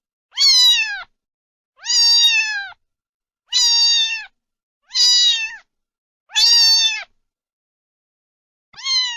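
A cat meowing over and over: six loud meows, each under a second long and dropping in pitch at its end. They come about one and a half seconds apart, with a longer pause before the last one near the end.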